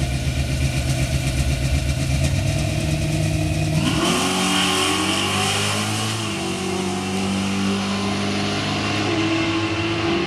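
Drag-racing muscle car engines idling with a pulsing beat, then launching about four seconds in and accelerating hard down the strip, engine pitch climbing and stepping through gear changes as the sound slowly draws away.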